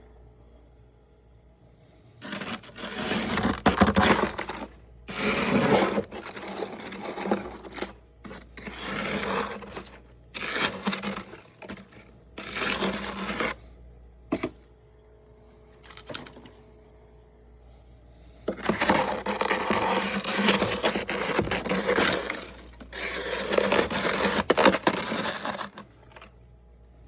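Close-up chewing of soft freezer frost, crunching in bursts of one to three seconds with short pauses between them and a longer pause about halfway through.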